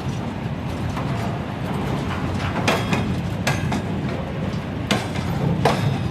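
Freight train of tank cars and timber wagons rolling past: a steady low rumble, with sharp wheel clanks over rail joints a few times.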